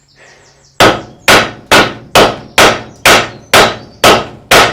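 A hammer strikes the car's front suspension nine times in steady succession, about two blows a second, each with a short ring. This is hammering to pop a ball joint out.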